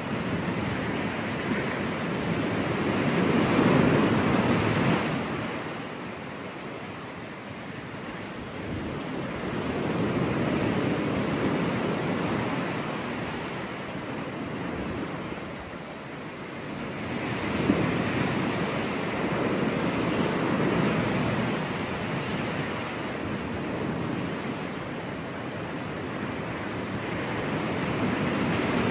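Ocean waves breaking on a beach, the surf swelling and falling away in slow surges every several seconds.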